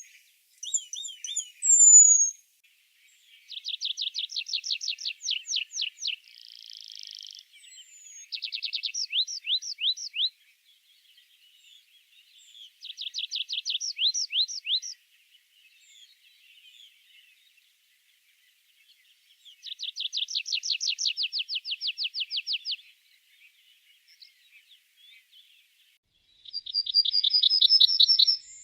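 Songbird singing in a woodland birdsong recording: a rapid, high trilled phrase of two to three seconds, repeated about five times with pauses, and short high whistled notes between.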